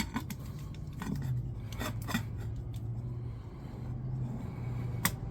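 Rubber tire bead scraping and rubbing against a mini bike rim as it is worked on, with scattered short clicks and scrapes.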